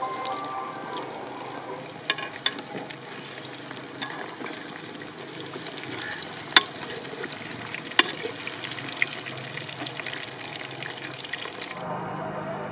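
Eggplant frying in hot oil in a pan: a steady sizzle with a few sharp clicks scattered through it. The sizzle cuts off suddenly near the end.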